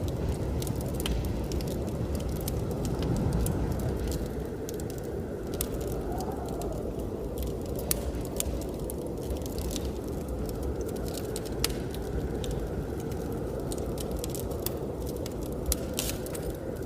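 Wood fire crackling, with a few louder pops about eight, twelve and sixteen seconds in, over the steady low rushing of blizzard wind that swells and eases.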